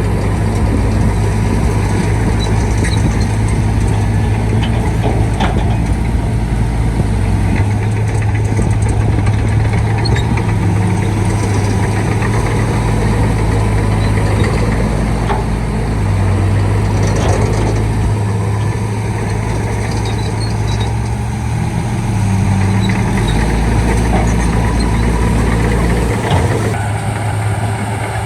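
Shantui D95 bulldozer's diesel engine working, its deep running tone shifting up and down several times as the load changes.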